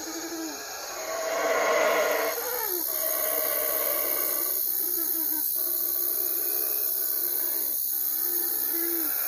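Owl hooting: a few short low calls, each ending in a downward slide in pitch, spaced a couple of seconds apart over a steady hiss.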